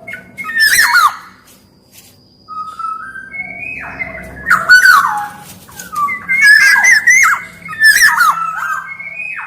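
Black-naped oriole (kepodang) singing vigorously: a series of loud phrases of fluty, gliding whistles mixed with harsh, squawky calls, with short pauses between them.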